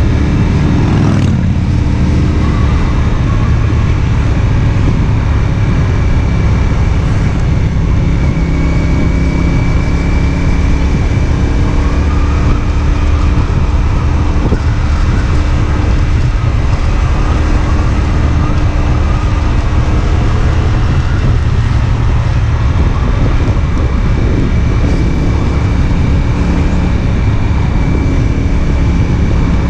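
CFMOTO 450SR S motorcycle's parallel-twin engine running while riding at a fairly steady speed, its pitch shifting only a little.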